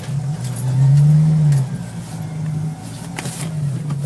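Jeep Wrangler YJ's 2.5-litre fuel-injected four-cylinder engine, heard from inside the cab while driving. The engine note rises to its loudest about a second in, then eases back to a steady pull.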